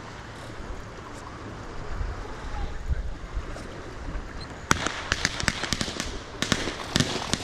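Fireworks going off: a rapid string of sharp cracks and pops begins a little past halfway and keeps on, over a low rumble.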